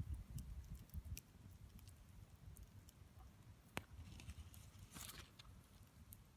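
Campfire crackling faintly: scattered sharp pops and ticks, one louder snap a little under four seconds in, and a short hiss about five seconds in, over a low rumble that fades after the first second or so.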